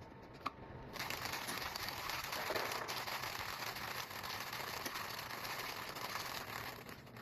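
HiBREW G4B manual coffee grinder grinding beans: a dense, crackling grinding noise that starts about a second in and stops just before the end.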